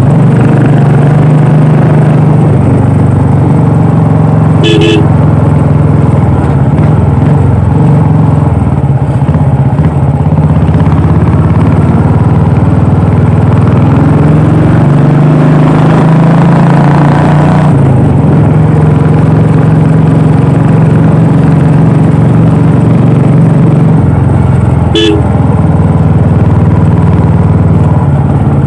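Royal Enfield Classic 350's single-cylinder engine and exhaust running steadily under way, its pitch shifting now and then with the throttle. A short horn beep sounds twice, about five seconds in and near the end.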